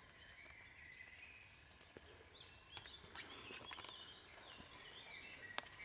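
Faint rain: scattered drops ticking on wet leaves. A bird calls faintly in high, wavering notes in the middle.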